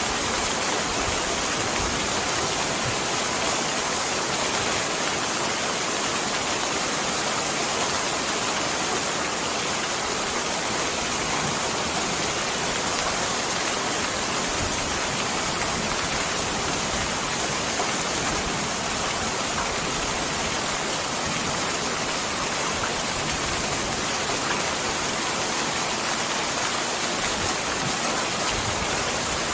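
Steady rain falling, an even unbroken hiss with no change in strength.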